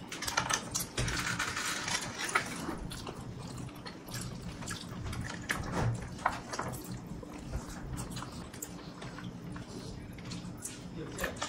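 Wet chewing and lip-smacking of people eating biryani and meat with their hands, a run of many small smacks and clicks, denser about a second in.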